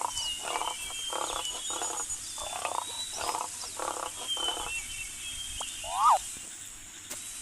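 Wild animal calls: a rhythmic run of about eight short, rasping pulsed calls, roughly two a second, that stop about two-thirds of the way through, with bird chirps and whistles over them. Near the end comes one louder call that rises and falls in pitch.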